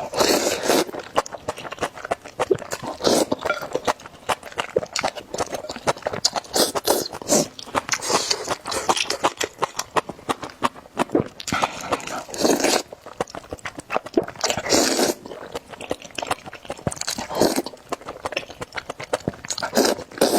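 A person eating noodle soup close to the microphone: wet chewing and smacking, with a louder slurp every few seconds.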